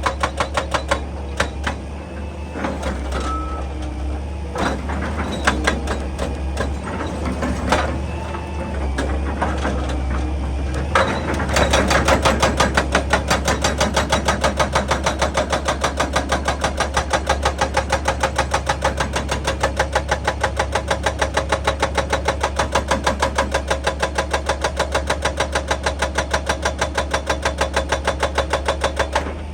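Excavator working: its diesel engine runs with a steady low hum, with irregular clanks and knocks at first. About twelve seconds in, a louder, regular knocking sets in at roughly two to three strokes a second.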